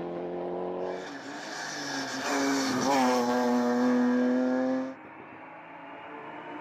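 Race car engine at high revs close by, its note dropping in pitch about three seconds in and then holding steady. Just before five seconds the sound falls away abruptly, leaving a fainter engine note.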